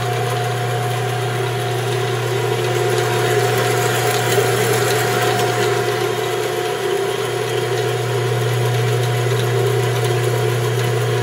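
Jet 7×12 horizontal bandsaw running steadily, its 3/4 hp motor, belt drive and blade making an even hum with a steady whine, the coolant pump running along with it.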